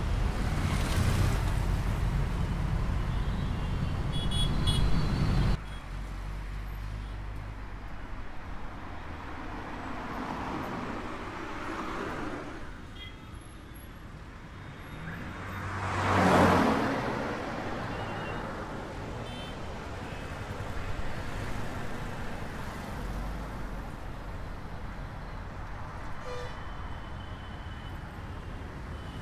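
Urban road traffic: engines running and cars passing, with a heavy low rumble that cuts off abruptly about five seconds in. One vehicle passes close, swelling and fading about halfway through. There are brief car horn toots.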